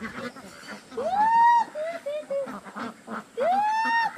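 A bird calling twice: each call is a long note that rises and levels off, followed by a few short lower notes, about every two and a half seconds.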